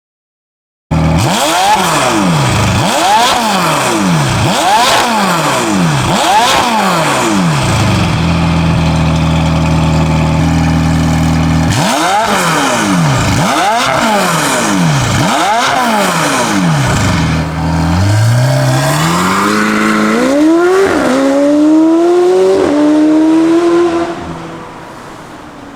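McLaren 720S twin-turbo V8 through a catless downpipe and valved catback exhaust, revved hard: four quick blips, a few seconds held steady, four more blips, then a longer climb in pitch broken by two short dips, before dropping back to a quieter idle near the end.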